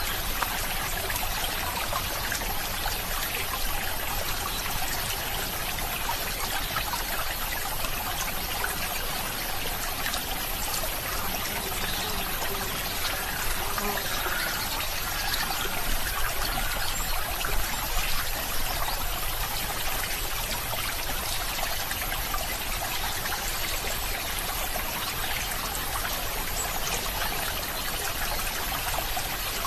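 Water flowing steadily: a stream trickling and running without a break.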